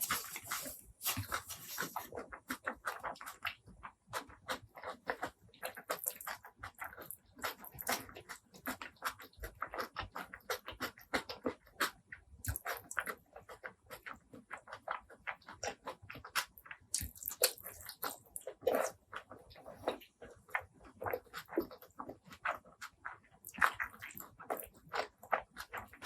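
Close-miked wet chewing and lip-smacking of a person eating a meal of pork curry and rice, a dense irregular run of small clicks and smacks.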